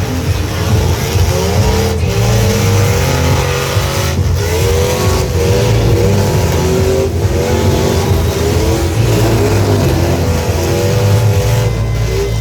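Truck engines revving hard, their pitch rising and falling again and again, with brief dips between revs.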